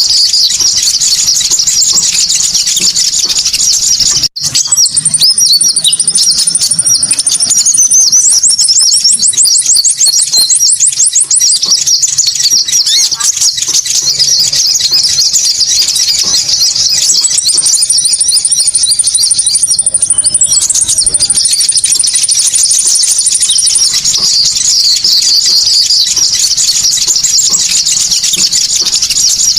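Konin birds calling in a lure recording: dense, high-pitched twittering and chattering with rapid repeated trills. The sound cuts out for a moment about four seconds in, as at an edit in a looped track.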